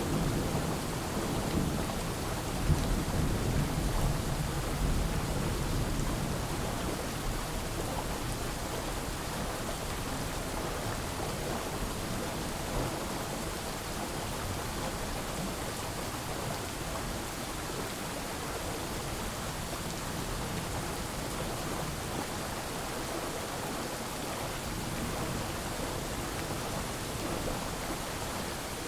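Steady rain falling, with a low rumble of thunder at the start that dies away over the first few seconds.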